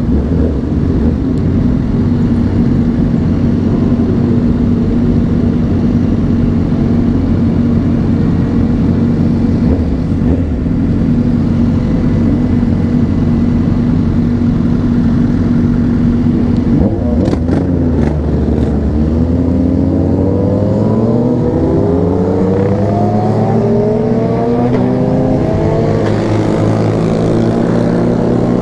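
Honda CBR600RR inline-four engine running at a steady cruise, heard from the bike with wind noise. About two-thirds of the way through the note dips briefly, then climbs steadily as the bike accelerates.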